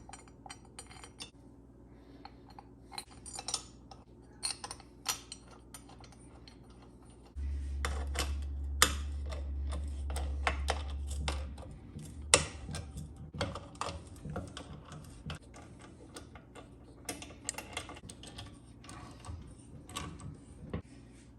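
Small metal clinks and taps of bolts and hand tools as the head bolts go back into an air compressor's cylinder head. A steady low rumble comes in suddenly about seven seconds in and stops about four seconds later.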